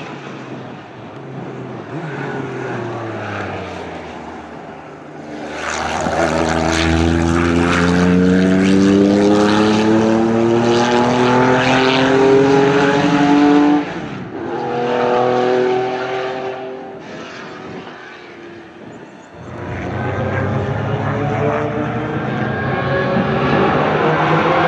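Racing car engines accelerating hard on track, the engine note climbing steadily in pitch and loudness. It breaks off suddenly partway through, then another engine climbs in pitch near the end.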